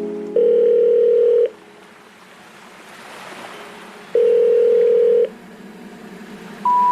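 Telephone ringback tone: two long steady rings about four seconds apart, with faint line hiss between them. Near the end a higher tone starts, the first of three rising notes of a special information tone.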